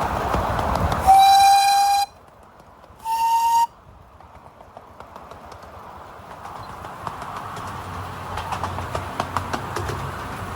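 Miniature railway locomotive's whistle blown twice: a blast of about a second, then a shorter, slightly higher one. Afterwards the train is heard running on the track, its rail clicks growing steadily louder.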